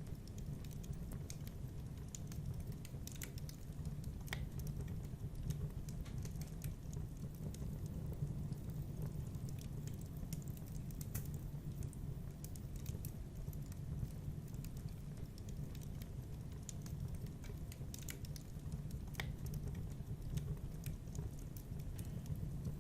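Wood fire crackling in a fireplace: a constant low rumble of flame with many small, irregular pops and snaps.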